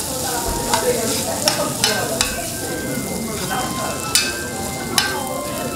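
Food sizzling and frying in a hot pan as it is stirred, with about six sharp clicks of a utensil against the pan.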